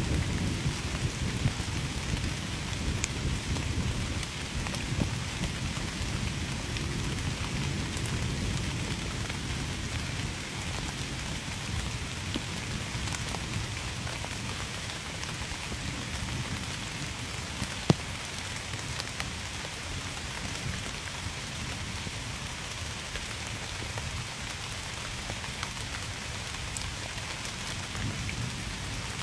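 Steady heavy rain with a low thunder rumble that fades away over the first several seconds. A single sharp tick sounds about two-thirds of the way through.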